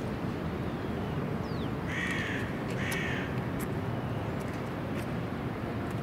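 A bird gives two harsh, crow-like calls about a second apart, over a steady low background rumble.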